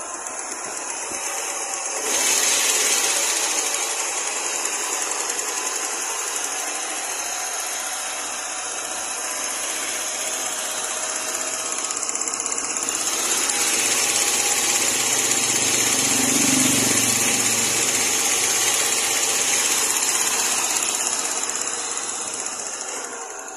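Ford Aspire's 1300 cc four-cylinder engine running in the open engine bay, a steady, hissy mechanical whir. It gets louder about two seconds in, swells again in the second half, and drops back near the end.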